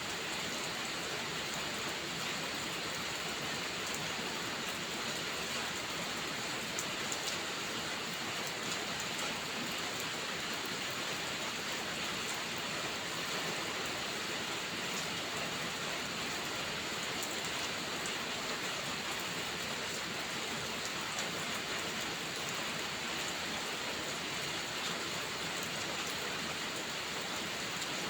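Steady rainfall: an even hiss with scattered faint ticks of drops.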